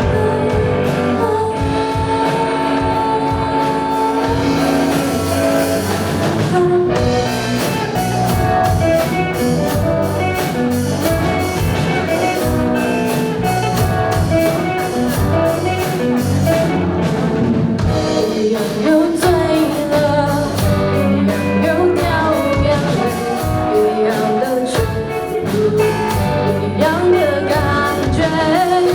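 A band playing a rock song with a singer, guitar and drums; the drum beat comes in about seven seconds in.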